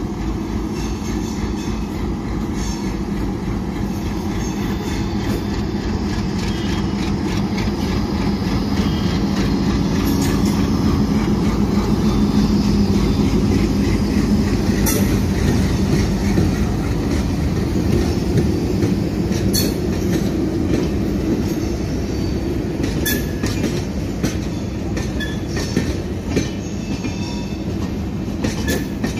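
Vadodara–Jamnagar Intercity Express train rolling into a station: a steady rumble of the coaches that is loudest about halfway through. Sharp clicks of wheels over rail joints come now and then in the second half.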